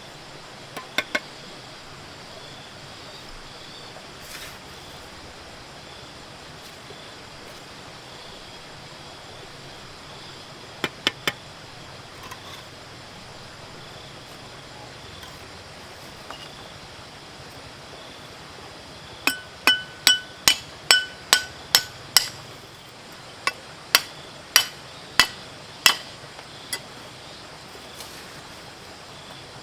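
Hammer strikes in short bursts: three quick blows about a second in, three more partway through, then a longer run of about a dozen blows, two or so a second, some with a short metallic ring.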